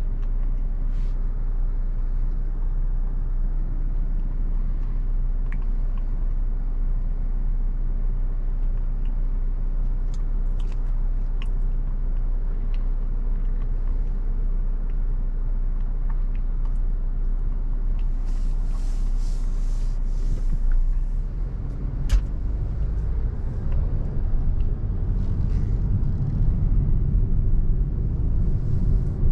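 Road and engine noise heard inside a moving car's cabin: a steady low rumble. A sharp click comes about two-thirds of the way through, and the rumble grows louder after it.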